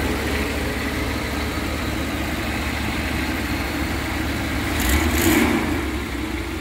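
Truck engine idling steadily while warming up after a head gasket replacement, with a short louder burst about five seconds in.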